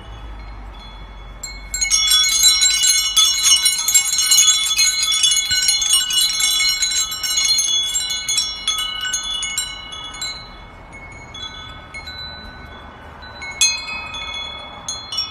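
Wind chimes ringing: a dense flurry of struck metallic tones starts about two seconds in and thins out over several seconds, then a few more strikes ring near the end.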